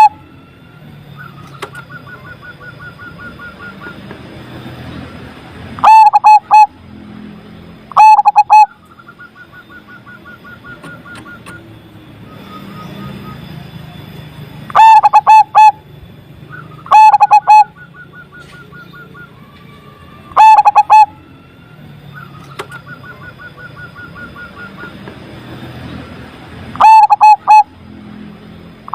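Zebra dove (perkutut) cooing: six loud phrases of several quick coos, a few seconds apart, so loud they clip. A fainter rapid trill runs between the phrases.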